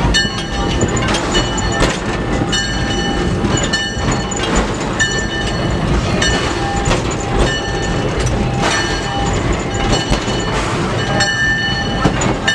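Steam locomotive cab noise: the blower runs steadily, drawing air through the firebox to raise boiler pressure. Irregular clanks and short high ringing tones come and go over it.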